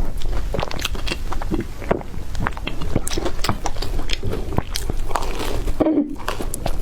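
Close-miked crunching and chewing of crispy bread: a dense, irregular run of crackling bites and chews.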